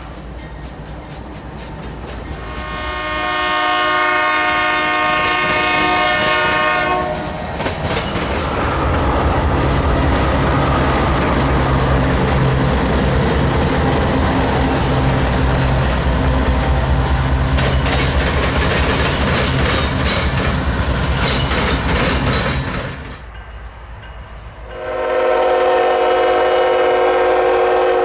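A diesel freight locomotive's air horn sounds a chord for several seconds, then the locomotive passes close with its diesel engine running and wheels clattering over the rail joints. Near the end the horn sounds again.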